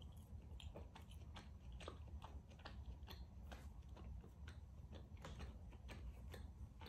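Close-miked chewing of a mouthful of rare beef tenderloin: faint, wet mouth clicks, about three a second, over a low steady hum.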